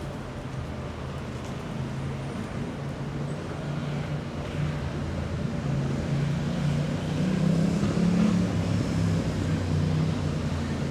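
A motor vehicle's engine running close by in street traffic, growing louder and rising slightly in pitch to a peak about eight seconds in, then easing off as it passes.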